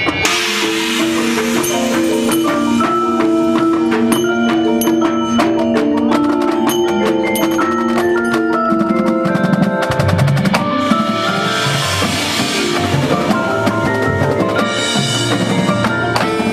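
Marching band show music with mallet percussion and drums: held chords under rapid marimba and xylophone strikes, with heavier low drums coming in about halfway through.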